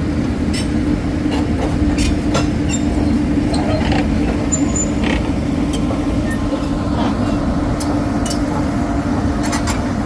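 Heavy engine running steadily with a constant low hum, with scattered short clicks and knocks.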